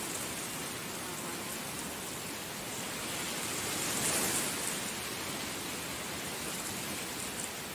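Heavy rain falling steadily, an even hiss of drops that swells briefly about four seconds in.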